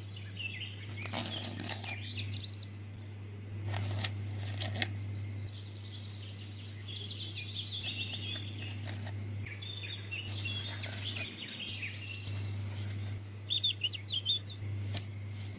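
Songbirds chirping and singing in short phrases, several of them quick descending trills, over a steady low hum. A few sharp clicks come in the first five seconds.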